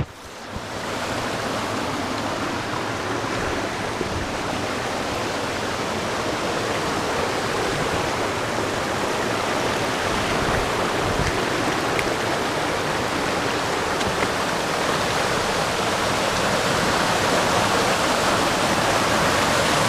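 Waterfall plunging through a narrow rock cleft: a steady rush of falling water that grows slowly louder toward the end.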